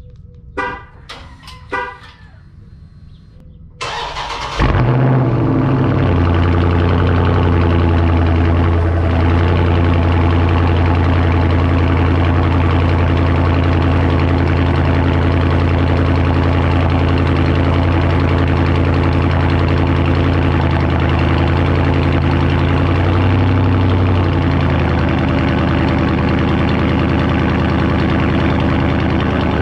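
Three short beeps, then about four seconds in the 2020 Dodge Charger Scat Pack Widebody's 6.4-litre HEMI V8 cranks and fires with a loud flare through its mid-muffler-deleted exhaust. It settles into a steady, loud idle that steps down slightly a little past twenty seconds in.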